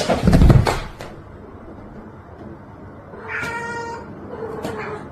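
A domestic cat meows: one drawn-out, steady call about three seconds in and a shorter one near the end. A loud burst of noise comes in the first second.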